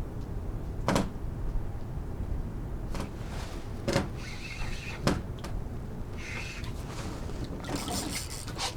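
A few sharp knocks on a kayak, four of them spaced over about four seconds, over a steady low rumble of wind and water.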